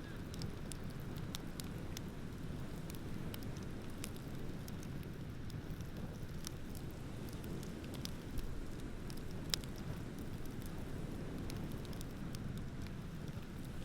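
Bonfire crackling, with scattered sharp pops and two louder ones past the middle, over a steady low rushing noise.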